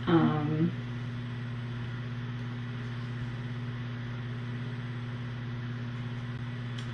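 A steady low electrical hum from the room's equipment, with a short voice-like sound in the first second.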